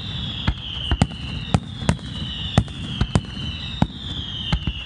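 Fireworks display going off: a rapid run of sharp bangs and pops, about two to three a second, with a high wavering whistle that keeps sliding down in pitch.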